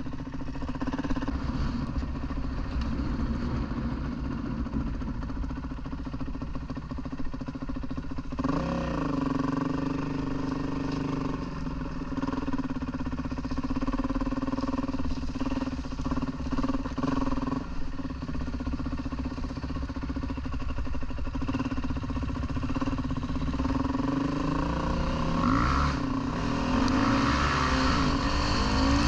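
Dirt bike engine running under way, with a change in engine pitch about a third of the way in and rising revs near the end as it gets louder.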